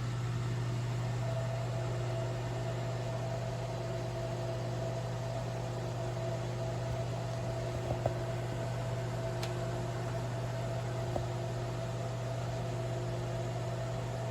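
Ninja Foodi SP351 air-fry oven running, a steady low fan hum with a faint higher whine over it. There are a couple of small clicks about eight and eleven seconds in.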